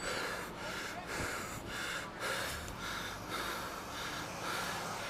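A person breathing hard close to the microphone, quick breaths about two a second.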